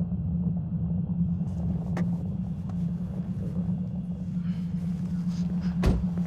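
A car's steady low rumble of engine and road noise, with a few faint clicks and a soft low knock near the end.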